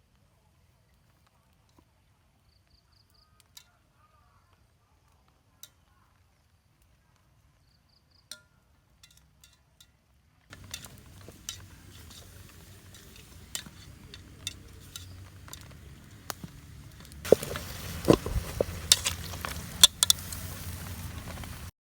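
A few light clinks of a cooking utensil, then from about halfway food sizzling while it is stirred, with frequent utensil clicks and scrapes. The sizzling grows louder near the end and cuts off suddenly.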